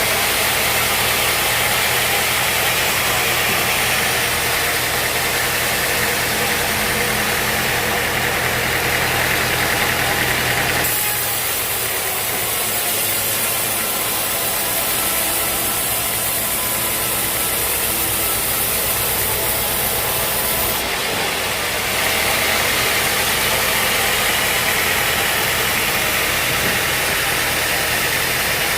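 Sawmill engine running steadily with a low hum, its tone shifting abruptly twice, about a third and two-thirds of the way through.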